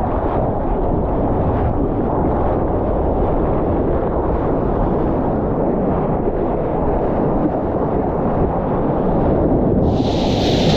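Wind and rushing water buffeting a surfing camera's microphone: a loud, steady low rumble. Near the end a brighter hiss of splashing water joins in.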